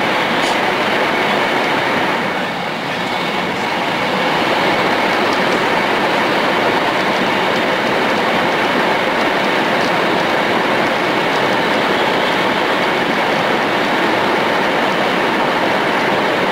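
E2 series Shinkansen train running at high speed: a steady, dense rush of rail and running noise that softens briefly about two seconds in.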